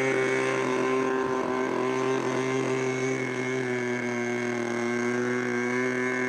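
Model airplane glow engine running steadily at an almost constant pitch.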